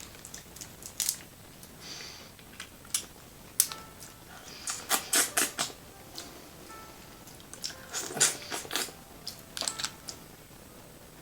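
Close-miked messy eating of a sauce-coated seafood boil: wet squelching and sticky smacks with sharp clicks and cracks. Two bursts of rapid crackling come about a third of the way in and again near the end.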